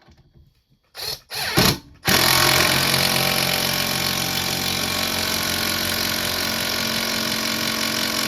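Hercules 12-volt cordless impact driver driving a screw into wood: a couple of short bursts about a second in, then running continuously from about two seconds in as the screw goes in.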